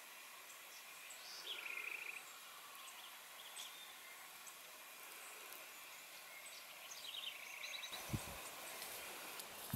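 Faint outdoor ambience with distant birdsong: a short trill of quick repeated high notes about one and a half seconds in, and another run of quick high chirps near the end. A soft low thump comes just after the chirps near the end.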